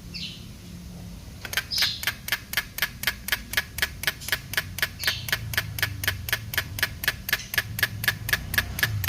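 Rapid, even mechanical clicking, about four clicks a second, starting about a second and a half in.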